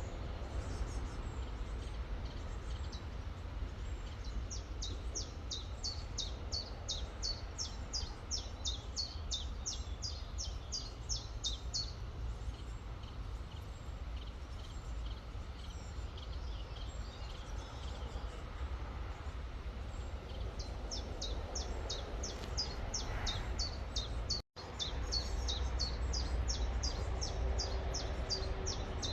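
A songbird repeating a quick, high, downward-slurred note about three times a second in two long runs, over the steady rush of a river and a low rumble. The sound cuts out completely for an instant near the end.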